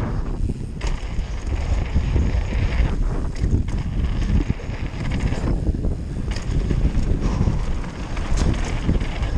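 Wind buffeting the mic of a mountain bike action camera, with the bike's tyres rolling fast over a dirt jump trail. The rumble is loud and steady, and the higher hiss drops out briefly about three times.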